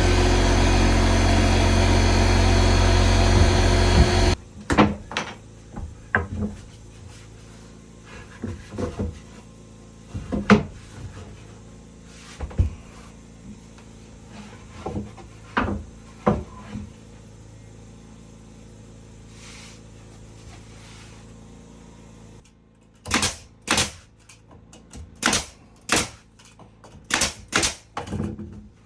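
A motor-driven tool runs steadily and cuts off suddenly about four seconds in. Then come scattered knocks and taps of work being handled, and near the end a quick run of about ten sharp knocks.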